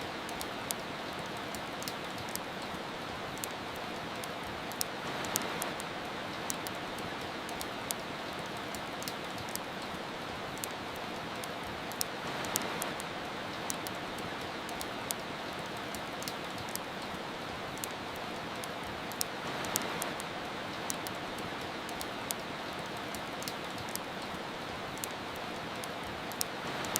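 Steady hiss of soft rain with frequent small sharp crackles of a wood fire in a fireplace. The rain swells gently about every seven seconds.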